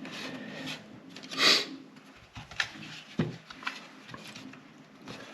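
Handling noises of a rubber tail-light seal being worked onto its plastic light housing. A brief scraping rub comes about a second and a half in, followed by a few small clicks and knocks.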